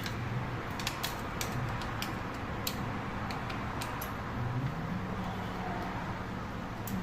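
Scooter engine running with a steady low hum, with irregular sharp clicks and rattles over it, thickest in the first few seconds. The rattling may point to a broken drive belt or worn bearings.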